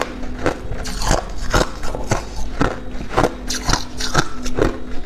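Ice being bitten and chewed: a steady run of hard, crisp crunches, about two to three a second.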